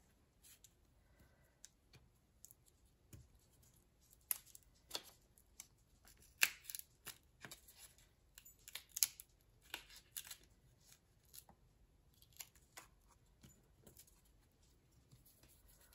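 Cardstock pieces being handled and peeled up by hand: scattered short paper rustles and light taps, loudest at about six and nine seconds in.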